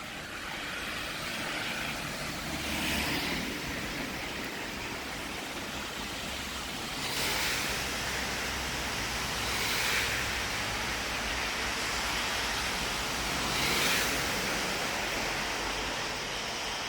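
Steady traffic hum with cars passing one after another, each tyre hiss swelling and fading, four times.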